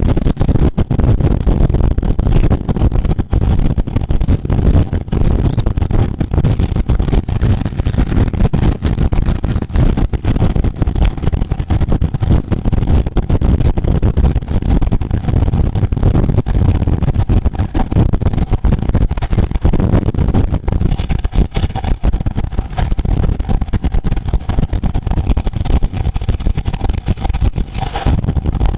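Wind buffeting a camera microphone on a bicycle moving at race speed, a loud, constantly fluttering rumble mixed with road noise. A faint steady hum joins about twenty seconds in.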